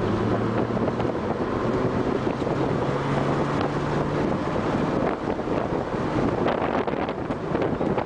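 A car's engine heard from inside the cabin while it is driven at speed on a race track, under heavy wind and road noise on the microphone. The engine note rises and then drops about halfway through.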